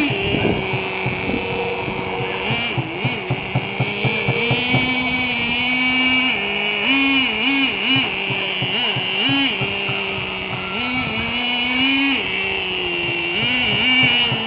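Small nitro-fuel RC truck engine running at high revs, its pitch dropping and jumping back up again and again as the throttle is blipped.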